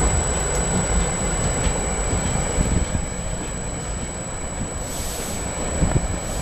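SEPTA electric commuter train rolling through the station, a steady rumble of wheels on rail with gusts buffeting the microphone. A short hiss comes about five seconds in.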